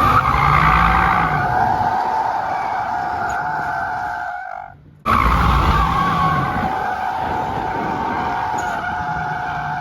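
Car tyres squealing in a long steady screech as the car slides, with the engine running hard underneath. The squeal fades out about four and a half seconds in, then starts again abruptly and carries on.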